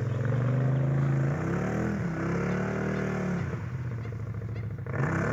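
Off-road vehicle engine revving in repeated surges, the pitch climbing and falling back several times.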